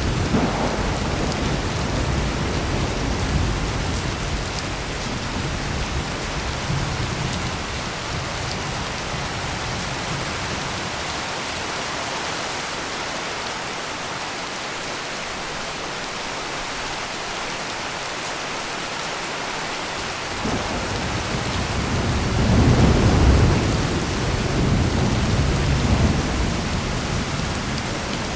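Heavy rain pouring steadily, with thunder rumbling low in the first few seconds and dying away. A louder roll of thunder builds and peaks about three-quarters of the way through, then eases off.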